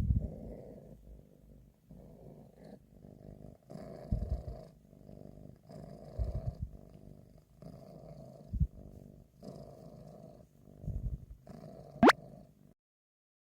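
Domestic cat purring close by, in swells every second and a half to two seconds, with a few low bumps. About twelve seconds in, a short loud rising sweep, then the sound cuts off suddenly.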